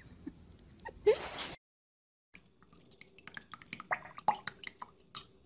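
A short rising squeak about a second in, then, after a brief gap, a duckling paddling in shallow water: a scatter of small drips, plops and splashes.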